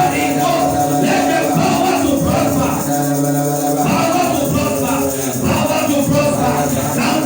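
Church worship music: held chords over a steady tambourine and shaker rhythm, with many voices of a congregation praying and singing along.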